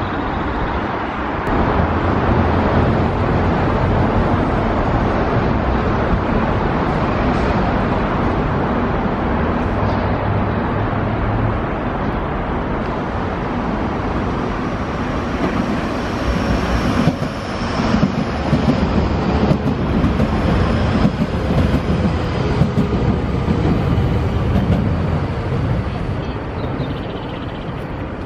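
Nankai electric commuter trains running past on the station tracks: a steady rumble of steel wheels on rail with running noise.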